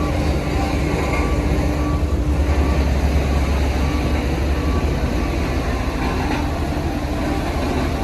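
Heavy diesel construction machinery running steadily, a continuous low engine rumble with no let-up.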